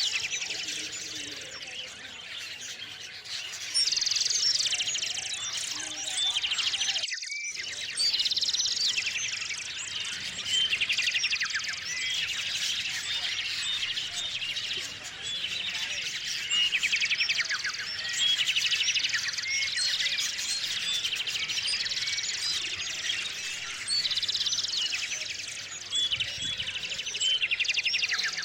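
A chorus of small songbirds at a feeder, many birds chirping and trilling at once in overlapping bursts that swell and fade every few seconds.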